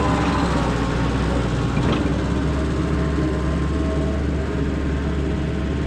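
Skid steer engine running steadily under work, with a light knock about two seconds in.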